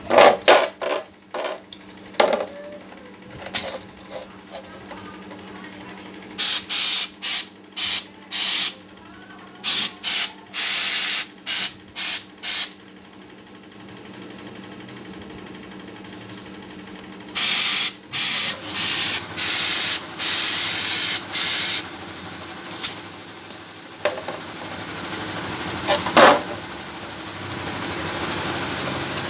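Compressed air hissing out of a TOKU air impact wrench in over a dozen short blasts as its trigger is pulled again and again, after a few clicks and knocks; the wrench is one that will not turn.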